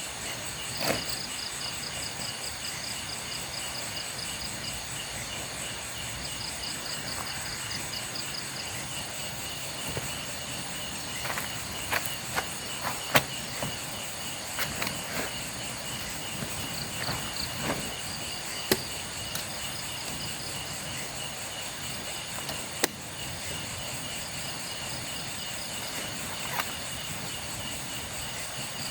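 Crickets and other night insects calling steadily, with repeated pulsing trills over a constant high drone. A few sharp clicks and knocks break in every few seconds, the loudest about halfway through.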